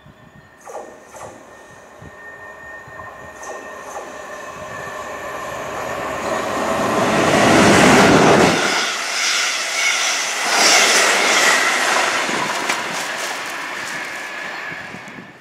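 South Western Railway Class 444 Desiro electric multiple unit running through the station without stopping: its rush builds steadily to a peak about eight seconds in as the front passes close by. The coaches follow with a quick clickety-clack of wheels over the rail joints, easing off near the end.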